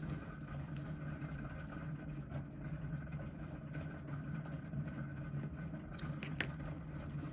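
Steady low hum from a running machine. Over it come faint small clicks of metal tweezers and tools on tiny watch-movement parts, with one sharper click about six and a half seconds in.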